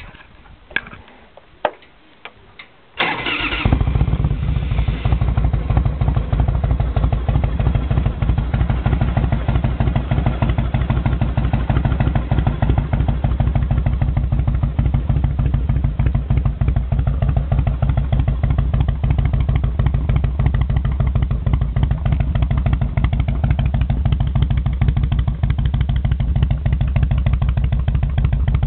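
1993 Harley-Davidson FLHR's Evolution V-twin, breathing through Hooker Headers fishtail mufflers with the baffles turned fully open, fires up about three seconds in after a few sharp clicks, then idles steadily with an even, pulsing beat. Its exhaust note is very deep and muffled, and it is loud.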